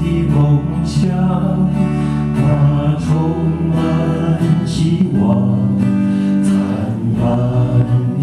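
Vocal group singing a Mandarin ballad in chorus over guitar accompaniment, with sustained sung notes.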